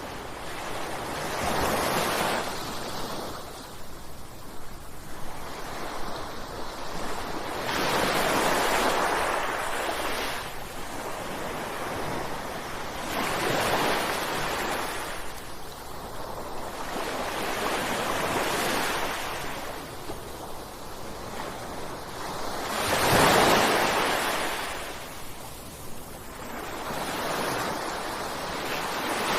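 Ocean waves breaking on a shore, a wash of surf that swells and fades about every five to six seconds, with the biggest wave breaking a little past three quarters of the way through.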